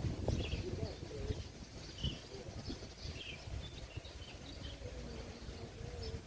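Small birds chirping in short, scattered calls, over a low rumble of wind on the microphone.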